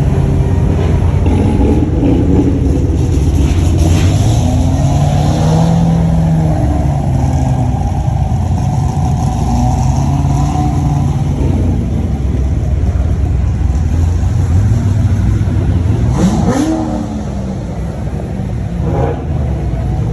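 Car engines running and revving, with a quick rising rev about sixteen seconds in.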